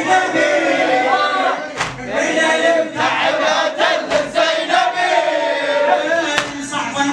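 A crowd of men chanting and calling out together in a latmiya, with a few sharp claps or strikes cutting through at irregular times.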